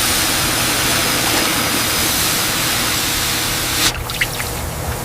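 A loud, steady rushing hiss that cuts off suddenly about four seconds in, followed by a few light clicks.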